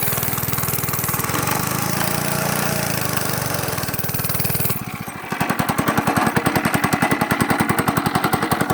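Small dirt bike engine running steadily; about five seconds in the sound changes abruptly to a close, pulsing idle with distinct, evenly spaced firing beats.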